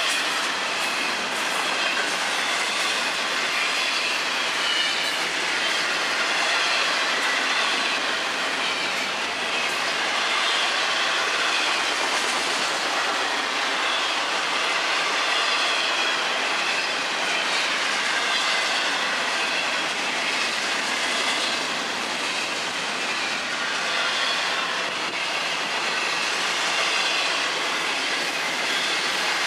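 Double-stack container cars of a freight train rolling steadily past: a continuous rumble of steel wheels on rail, with a wavering high-pitched wheel squeal over it.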